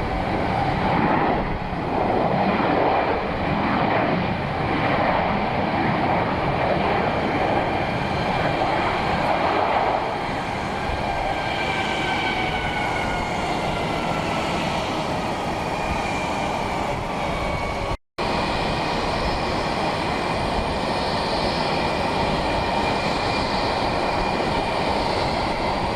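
Jet airliner engines running at an airport, a steady rushing rumble with a thin whine that slowly falls in pitch over several seconds. The sound drops out completely for a moment about two-thirds of the way through.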